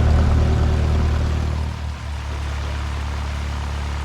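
Cessna 172 Skyhawk's piston engine and propeller running at taxi power, a steady low drone heard inside the cabin. About two seconds in it dips briefly and settles to a quieter steady drone.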